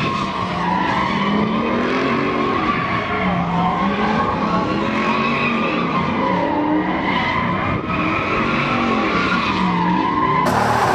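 A truck doing a burnout: tyres squealing continuously while the engine revs up and down over and over. Near the end the sound changes abruptly to a brighter hiss.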